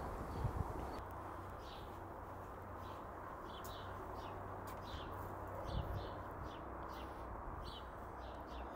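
Small birds chirping, with short high calls scattered throughout, over a steady low hum.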